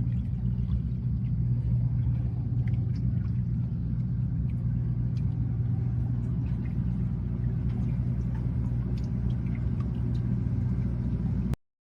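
Steady low drone of a motor yacht's onboard machinery, heard from its stern deck, with a few faint ticks over it; it cuts off suddenly near the end.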